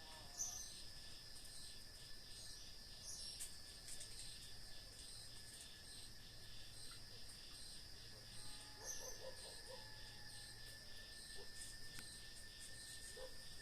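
Crickets and other insects trilling steadily in a night chorus, one of them pulsing at about four beats a second over a constant thin tone. A few brief high chirps come and go, and about nine seconds in there is a short faint lower call.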